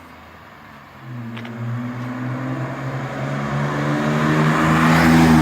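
BMW E34 520i's M50 2.0-litre 24-valve straight-six, with a lightly modified rear silencer, idling, then revved up about a second in. The revs climb steadily and peak near the end.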